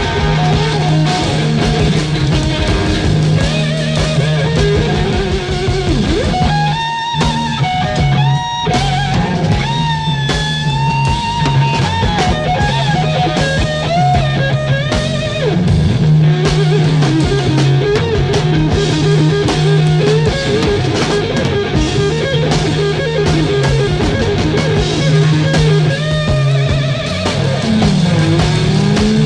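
Rock band instrumental: lead guitar playing bent, sliding notes over a steady bass line and drum kit.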